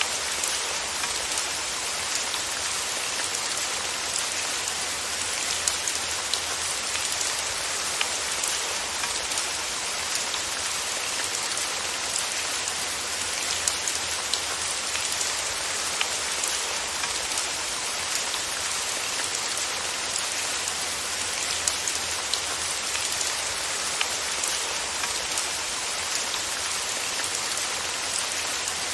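Steady rain falling, an even hiss with scattered sharp drop taps.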